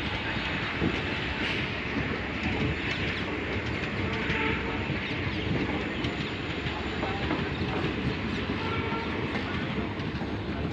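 Indian Railways train running along the track: a steady rumble with the wheels clattering over the rail joints.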